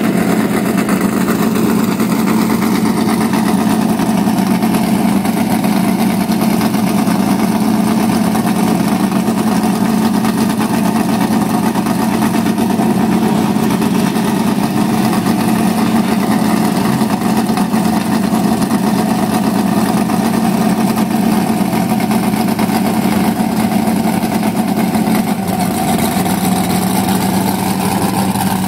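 Drag-race cars' engines idling loudly and steadily, a constant deep hum with no revving.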